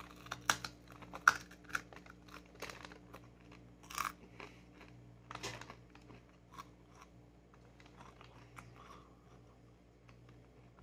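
A bite into a cold, chewy Subway footlong churro, then close-up chewing: small crunches and wet mouth clicks, most of them in the first six seconds and only a few after.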